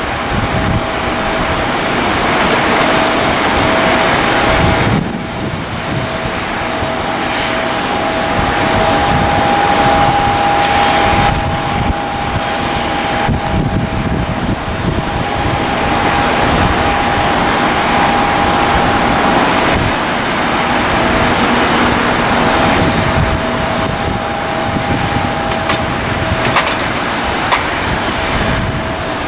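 Boeing 737-800 airliner's CFM56 jet engines running: a steady wash of jet noise with two steady whining tones, and wind rumbling on the microphone.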